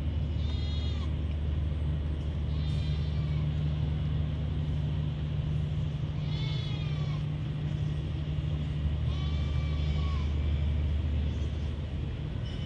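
Massey Ferguson tractor's diesel engine idling with a steady low drone. Four short, high, wavering calls sound over it, about three seconds apart.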